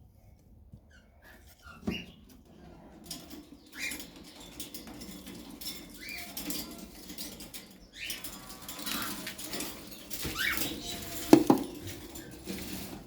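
Caged birds fluttering and flapping their wings, with short rising chirps now and then and a sharp knock against the cage about eleven seconds in.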